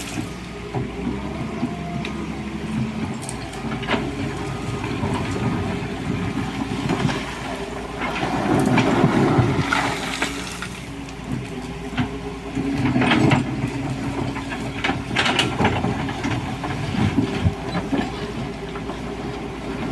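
Hydraulic excavator's diesel engine running steadily, swelling in several bouts as the machine works, with intermittent clatter of gravel.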